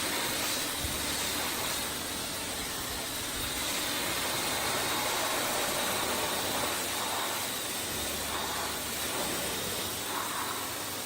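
Steady hissing spray from car-detailing equipment, even and unbroken.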